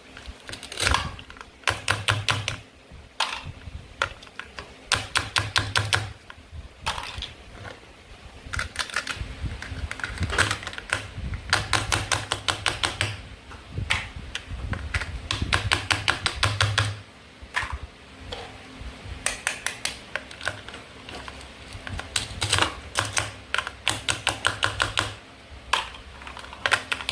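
Toy fruit and vegetables being cut apart with a toy knife, giving bursts of rapid sharp clicks about a second long with short pauses between them.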